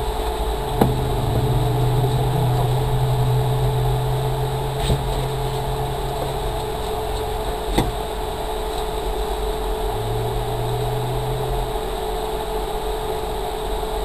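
Inside a stationary Ford Focus rally car: a steady mechanical hum with the engine apparently idling, a low drone that cuts in for several seconds, stops, and returns briefly near the end, and a few light clicks and knocks.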